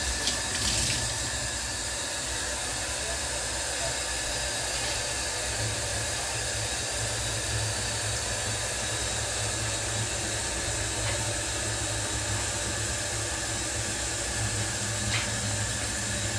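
A steady hiss over a low hum, unchanging throughout.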